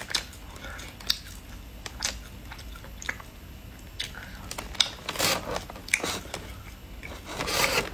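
Chewing and biting pieces of dried roasted monkfish fillet, with scattered sharp crunches that come thicker about five seconds in and again near the end.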